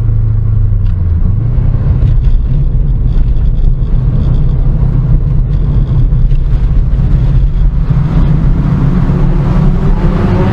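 Car engine running steadily under way, a loud low drone heard from on board the car. Near the end its pitch climbs as the car accelerates.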